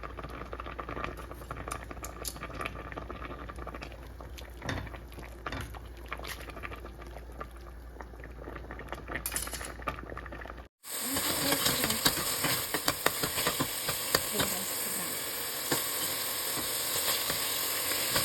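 Food frying in a pan with stirring: a quieter sizzle with scattered clicks for the first half, then after a brief break a much louder, dense sizzle.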